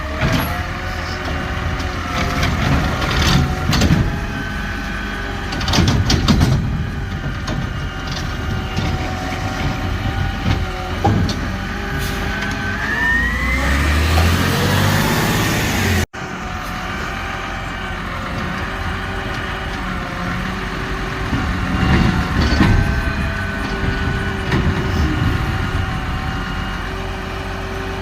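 Garbage truck's diesel engine running, with scattered metallic clunks and bangs. About twelve seconds in, the engine revs up with a rising whine, then cuts off suddenly. The engine is heard steady again afterwards, with more clunks.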